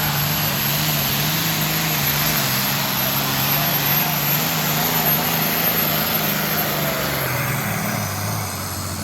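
Super stock pulling tractor's diesel engine running at full power during a pull, very loud, its pitch wavering. About eight seconds in the engine pitch drops as it throttles down.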